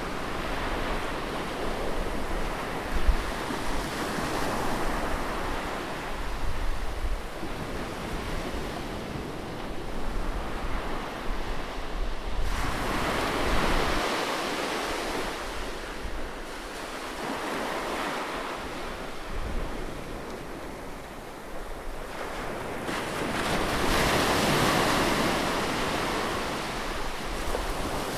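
Sea waves breaking close at the shore: a steady wash of surf that swells into a louder surge about every ten seconds and then draws back, over a low rumble.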